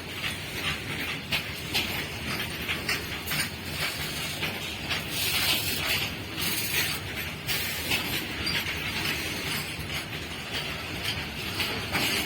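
Train running past on the track, its wheels clattering in quick irregular clicks over a steady rumble.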